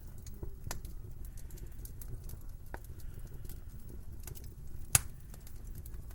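Wood fire crackling in a fireplace: irregular small pops and snaps over a low rumble, with one loud pop about five seconds in.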